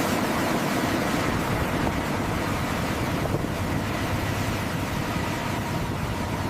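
Steady rushing roar with a faint thin whine over it, starting abruptly after music.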